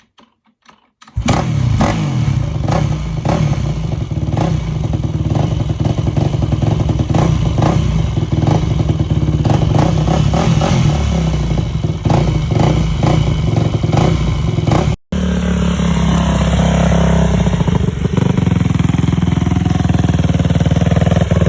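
A rebuilt 2008 Yamaha YZ250's two-stroke single-cylinder engine running, starting about a second in and continuing loud and steady, with a brief sudden break a little past the middle.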